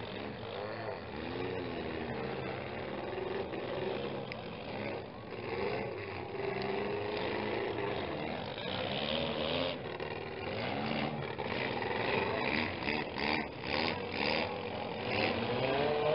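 Several demolition-derby mini car engines revving up and down, their pitch rising and falling again and again. In the second half there are a few sharp knocks.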